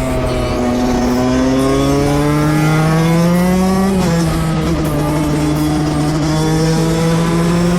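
Single-cylinder two-stroke dirt bike engine running hard at high revs. Its pitch climbs slowly, drops sharply about halfway through, then holds and starts to climb again.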